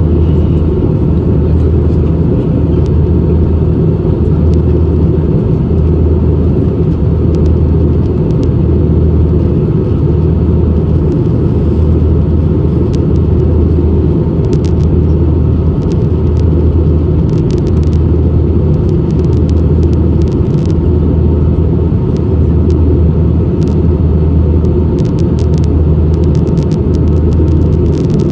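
Airbus A320 cabin noise: a loud, steady rumble of the engines and airflow heard from inside the cabin, with a low drone that swells and fades about once every second and a bit.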